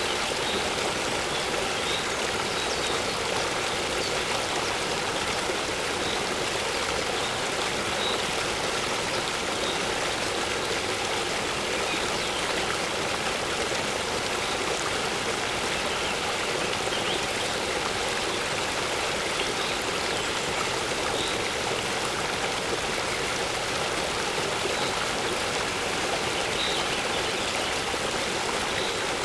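Waterfall pouring steadily into a pool, an even rushing of water, with short high bird chirps every second or two.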